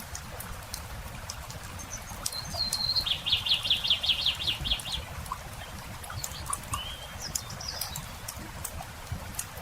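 Campfire wood crackling with scattered sharp pops, while a songbird sings a rapid trill of about a dozen repeated high notes a few seconds in, followed by a few shorter chirps.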